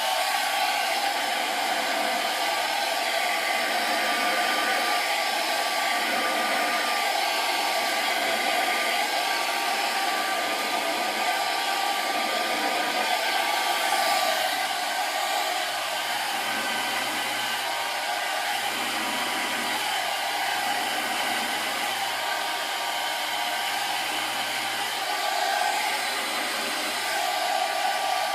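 Handheld blow dryer running steadily while blow-drying hair: a constant rush of air with a steady whine, shifting slightly in tone now and then as the dryer is moved.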